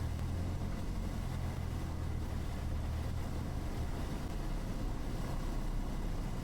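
Cessna 172's four-cylinder piston engine and propeller droning steadily in the cabin on a gusty final approach. The low drone weakens about four seconds in.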